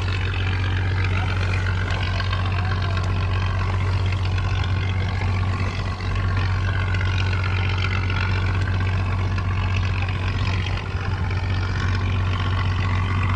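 Boat engine running steadily with a constant low drone under a rushing noise.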